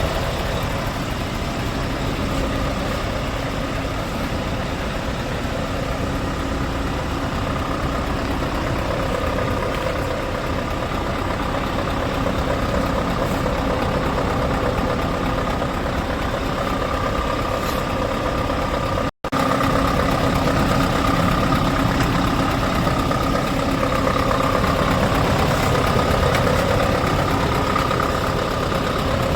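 Scania R580's 16-litre V8 diesel engine idling steadily. It cuts out for an instant about two-thirds of the way through.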